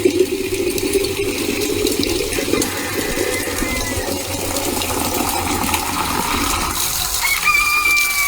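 Water running and splashing, with scattered small clinks. Near the end comes a short, steady, high whistle-like tone that bends down as it stops.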